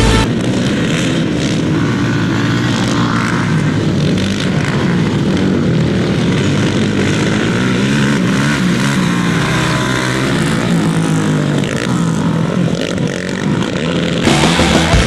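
Off-road racing engines running hard, their pitch rising and falling continually as the riders rev and shift.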